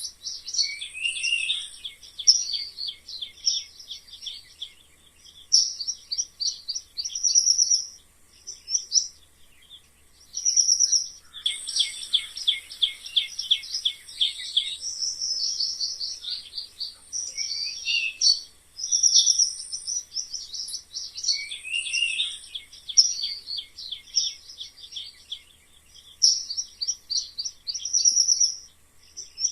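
Mice squeaking: clusters of short, high-pitched squeaks and chirps in bursts of a second or two, separated by brief pauses.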